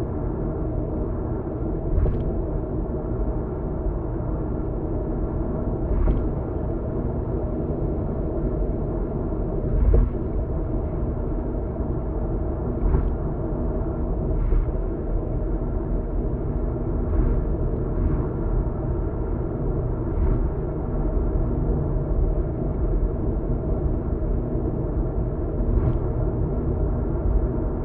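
Car cabin road noise at expressway speed: a steady low rumble of tyres and engine, with a brief thump every few seconds as the tyres cross joints in the road surface.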